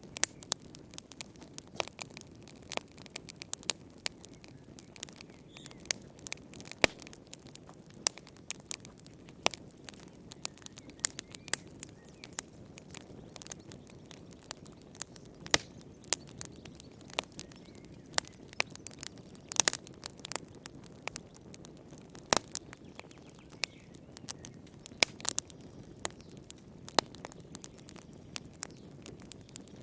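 Wood fire in a fireplace crackling, with frequent sharp irregular pops and snaps over a low, steady rush of the flames.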